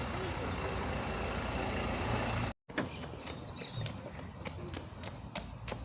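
Steady outdoor background noise with a low hum, like distant traffic, broken by a brief total cutout about two and a half seconds in. After the cutout it is quieter, with a few light clicks.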